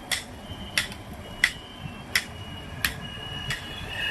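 Motorbike turn-signal indicator ticking about one and a half times a second, with a thin high beep between the ticks, over a low engine and road rumble.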